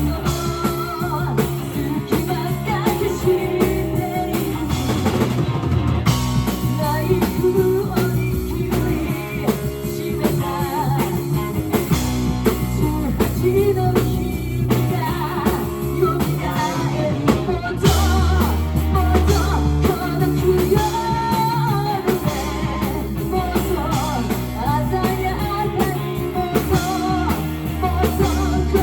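Live rock band playing, with singing, electric guitar, bass and drum kit.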